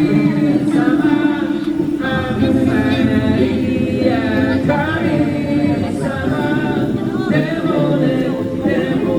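A cappella vocal music: a group of voices singing without instruments.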